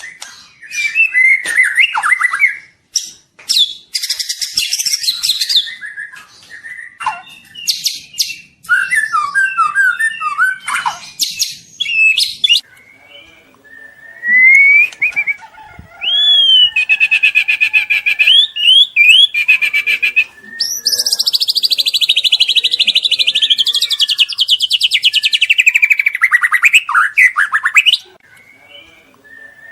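White-rumped shama singing loudly in the rapid 'trotol' style: varied phrases of stuttering trills, rattles and rising whistles. Near the end comes a long, rapid buzzy run lasting several seconds.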